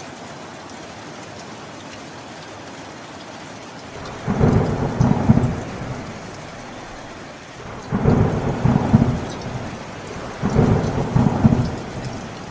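Steady rain falling, with three low rolls of thunder: one about four seconds in, another at about eight seconds, and a third at about ten and a half seconds. Each lasts a second and a half to two seconds.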